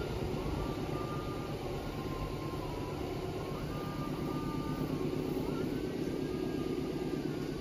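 Steady rumble of a train out of sight along the line, with faint thin wavering tones above it.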